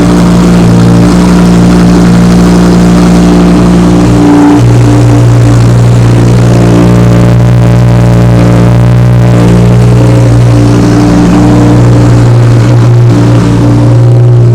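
Audi R8 Plus 5.2-litre V10 idling steadily and loudly after a cold start, through an exhaust without a particulate filter. Its note shifts slightly about four and a half seconds in.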